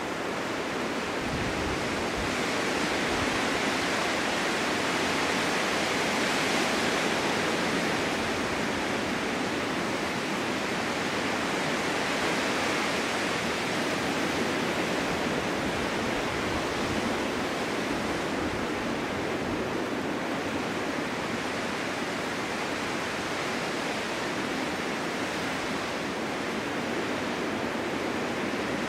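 Winter wind blowing steadily, a dense rushing noise that swells gently in the first several seconds and then eases a little.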